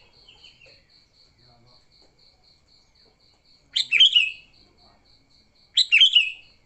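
Sooty-headed bulbul giving two short, loud chattering call phrases about two seconds apart, its 'fighting' call used to lure other bulbuls.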